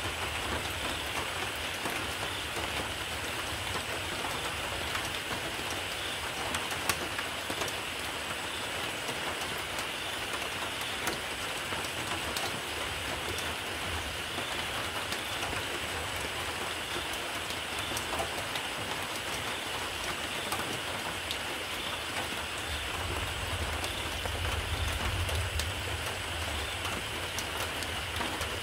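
Steady rain falling, with scattered sharp drop ticks. A low rumble swells briefly near the end.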